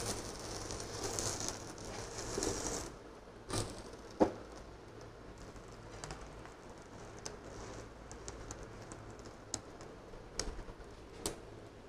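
Bread omelette frying in a nonstick pan as it is flipped over with a spatula: sizzling for the first few seconds, two sharp taps around four seconds in, then softer sizzling with scattered crackles.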